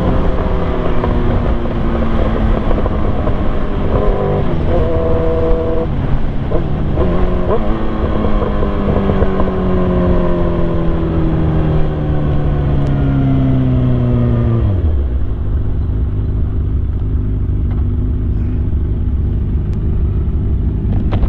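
Yamaha R1 sport bike's inline-four engine under way, its note falling slowly as the revs come down, then dropping sharply about fifteen seconds in to a low, steady rumble.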